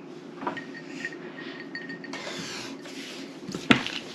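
Light clicks and taps of a tabletop card game being played, with one sharp click about three and a half seconds in, over a steady low hum.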